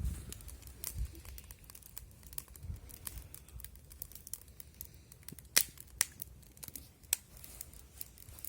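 Wood fire crackling: scattered sharp pops and snaps, a few louder ones about one second in and between five and seven seconds in, over faint low background noise.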